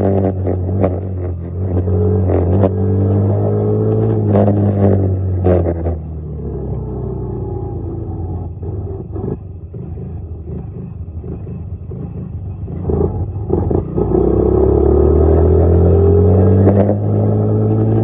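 Dirt bike engine running under way: it holds a steady note, eases off to a lower, quieter note about six seconds in, then picks up again louder with a rising pitch about fourteen seconds in.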